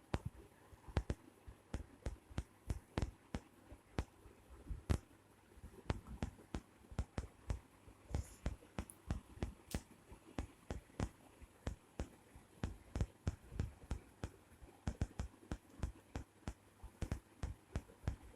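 A quick, irregular series of light clicks and knocks, several a second.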